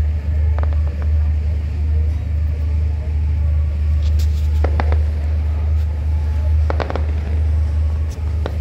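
Steady deep rumble, with a few short faint sounds about halfway through and again near the end.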